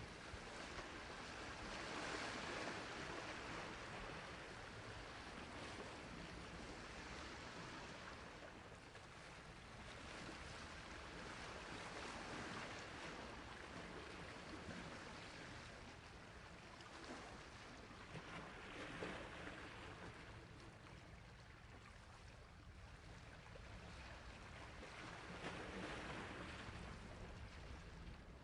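Sea waves washing on a shore: a steady hiss of surf that swells and fades every several seconds.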